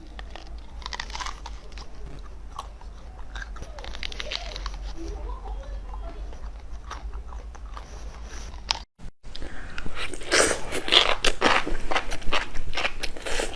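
Close-miked mouth sounds of someone eating spicy instant noodles: wet chewing and smacking, faint at first, then louder and quicker after a brief break about nine seconds in.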